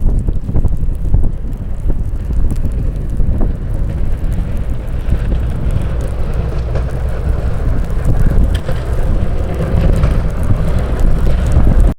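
Wind buffeting the microphone over the steady rumble of a jet aircraft, with a hiss that grows in the second half as the jet comes closer.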